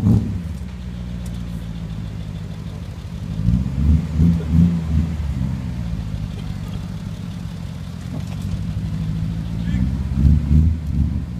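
BMW M5 engine idling, revved in two short bursts: one about three and a half seconds in and another near the end.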